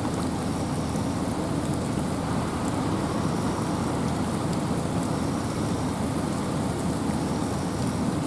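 Steady rain with wind, an even rushing noise with a low rumble underneath that holds constant throughout.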